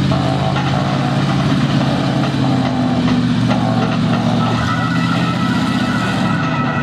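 Monster truck engine idling steadily.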